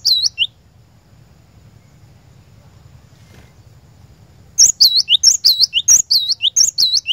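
Cinereous tit (glatik batu) song: a brief tail of repeated high whistled phrases, a pause of about four seconds, then another run of the same quick three-note phrase repeated about twice a second near the end.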